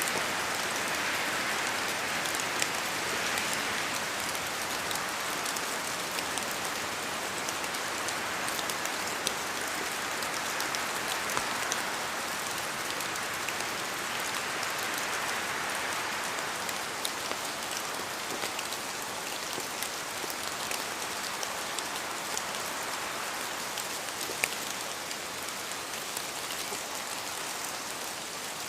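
Steady rain falling, an even hiss of downpour with scattered sharper drop ticks on a surface.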